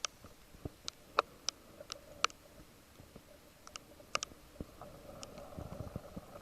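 Scattered raindrops ticking on a hard surface: irregular single sharp ticks, a few louder than the rest, with a faint steady noise building near the end.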